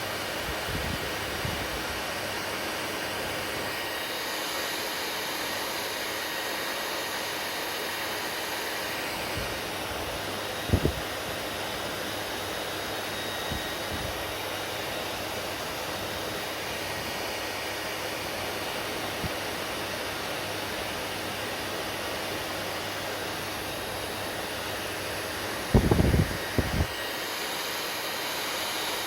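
Hair dryer running steadily with a constant blowing hiss. A few short low thumps come through it, one about a third of the way in and a louder cluster near the end.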